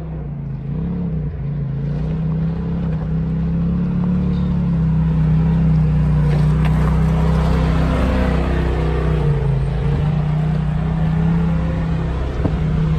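A vehicle engine running steadily with its pitch wavering a little, growing louder over the first few seconds.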